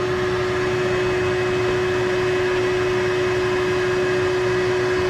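A vacuum running steadily with a constant hum, drawing through a thin tube pushed down an engine's dipstick tube to suck out the oil. The tube is so narrow that it holds no suction.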